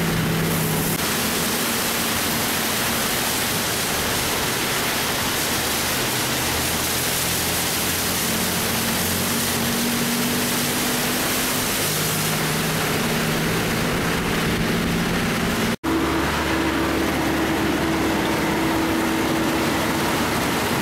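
Inside a moving bus: a steady rush of road and engine noise, with a low engine hum that shifts in pitch. The sound drops out for an instant about three quarters of the way through.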